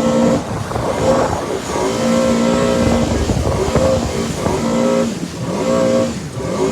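Jet ski engine revving hard through a donut. The engine's pitch holds, then drops and climbs again several times as the throttle comes off and back on, over a steady rush of wind and spray.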